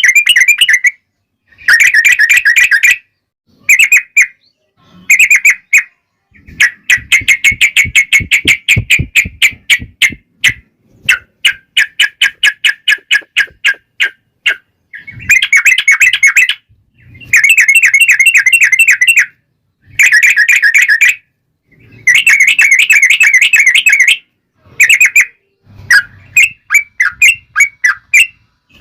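Yellow-vented bulbul (trucukan) singing loud, chattering phrases of quick bubbling notes with short pauses between them. Between about a quarter and halfway through, it sings one long rapid trill.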